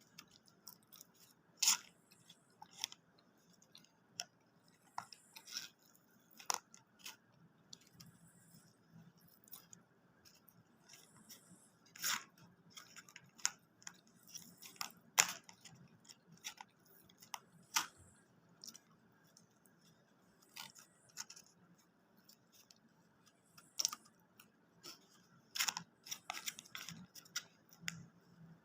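A person chewing food close to the microphone, with irregular sharp clicks and crunches every second or so.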